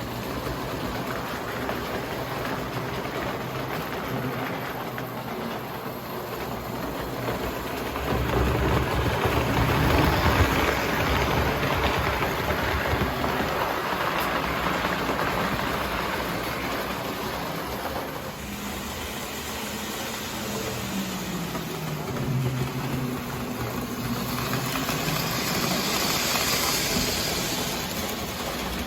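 Lionel toy train locomotive running on three-rail track, its electric motor and gears whirring with the wheels rolling on the rails. It grows louder about a third of the way in, and later a low tone dips in pitch.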